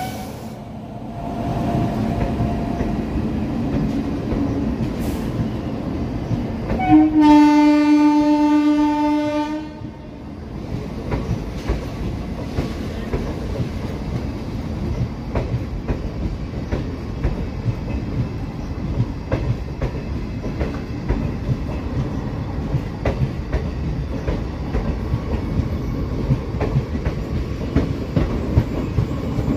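Passenger coaches of an express train hauled by a WAG-9HC electric locomotive roll past close by, with a steady rumble and wheels clicking over the rail joints. About seven seconds in, a loud train horn sounds for about three seconds.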